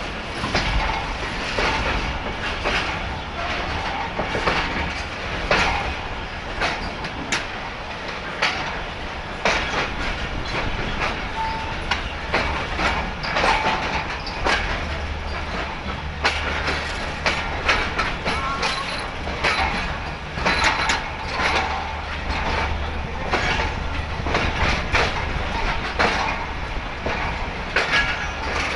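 Passenger train rolling slowly out of a station, heard from the open window of one of its coaches: wheels clicking and knocking over rail joints above a steady low rumble.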